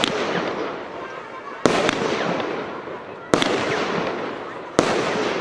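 Consumer firework battery firing shot after shot: three sharp reports about a second and a half apart, each followed by a long crackling that fades away.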